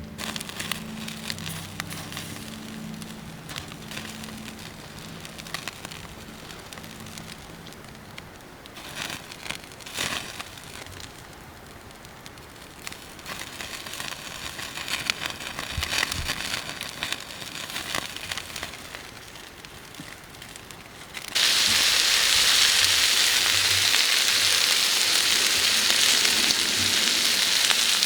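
Wood fire in a mini fire pit crackling, with scattered sharp pops. About 21 seconds in, this gives way abruptly to a much louder, steady sizzling hiss.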